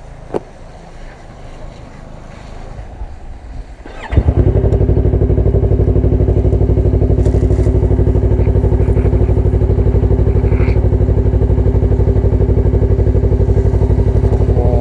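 Motorcycle engine started about four seconds in, catching at once and settling into a loud, steady idle.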